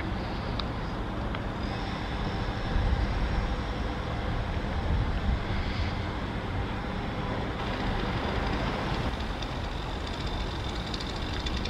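SNCF TER regional multiple unit running slowly with a steady low hum, a thin high whine joining it about two seconds in.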